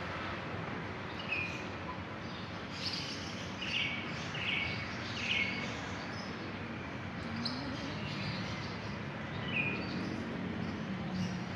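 Small birds chirping, short high calls in a quick run a few seconds in and a few more scattered later, over a steady outdoor background noise.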